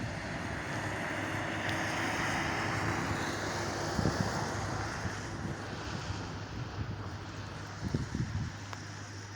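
Heavy rain pouring with wind buffeting the microphone: a dense hiss that swells over the first few seconds and eases off, with a few low thumps from gusts.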